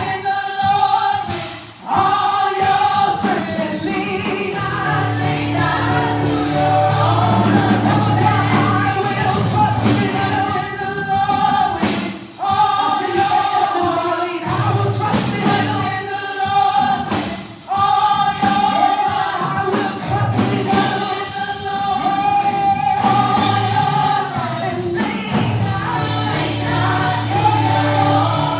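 A gospel choir singing with the band, over a sustained bass line.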